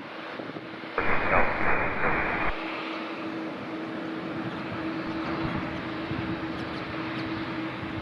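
Boeing 777-200 jet engines running with a steady hum. About a second in, a loud burst of air-traffic-control radio static cuts in for about a second and a half, then stops abruptly.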